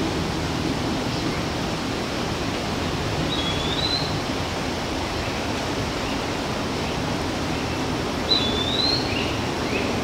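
Steady outdoor background rush, with a bird giving a short whistled call twice, a note that dips and then rises, about three seconds in and again near the end.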